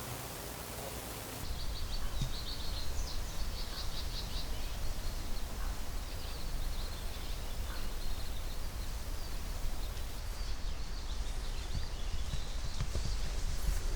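Small birds chirping in quick twittering series over a low, steady rumble of outdoor background noise, starting abruptly about a second and a half in.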